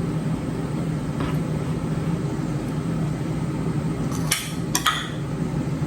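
Steady low electrical hum of a running kitchen appliance, with a few light clatters of kitchenware about a second in and again after four seconds.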